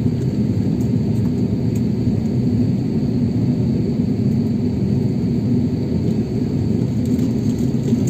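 Steady low rumble of a jet airliner heard from inside the passenger cabin, with the engines running while the aircraft taxis after landing.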